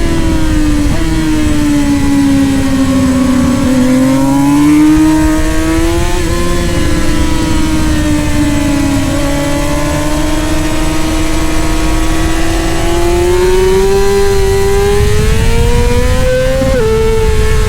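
Middleweight superbike engine at racing speed, its pitch sinking and rising slowly as it slows and accelerates, with a few sudden jumps in pitch at gear changes.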